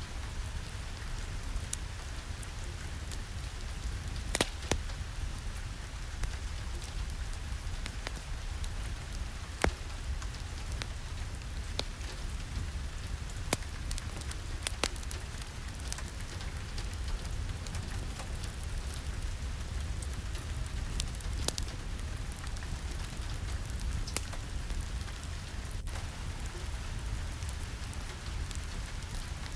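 Steady rain with a low rumble beneath it, and scattered sharp pops and crackles from a wood fire in a fireplace.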